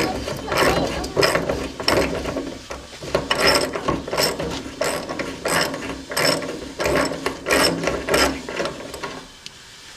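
Hand ratchet wrench clicking through repeated back-and-forth strokes, about three strokes every two seconds; the ratcheting stops shortly before the end.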